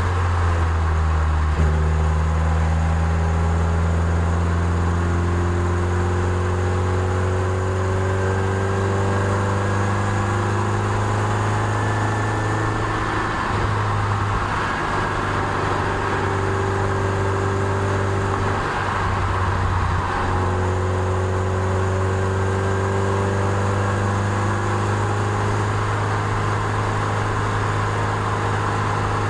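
Toyota MR2 Spyder's 1.8-litre four-cylinder engine pulling steadily uphill, its pitch slowly drifting, with two brief breaks in the engine note about 13 and 20 seconds in.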